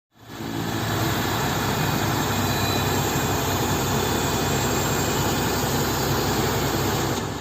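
Heavy truck's diesel engine running steadily: a constant low hum with a broad hiss over it, fading in over the first half second.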